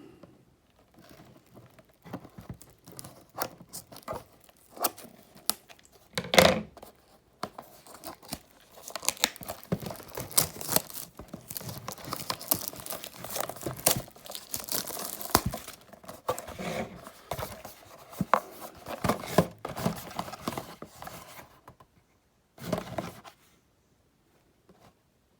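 Plastic wrapping being torn off a trading-card blaster box and crumpled: crinkling and tearing with small handling clicks, one loud knock about six seconds in and the densest crinkling around the middle.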